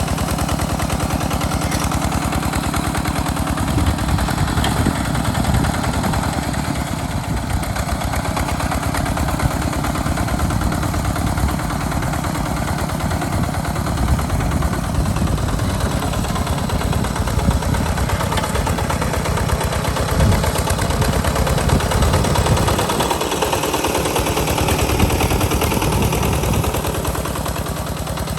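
Single-cylinder diesel engine of a walk-behind two-wheel tractor running steadily, with a rapid run of exhaust beats, while it plows a sandy field.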